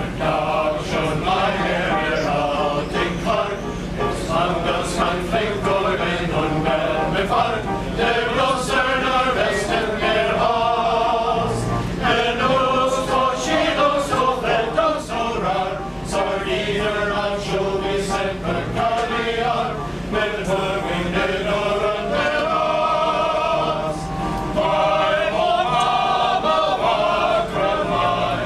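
Male chorus singing in several parts.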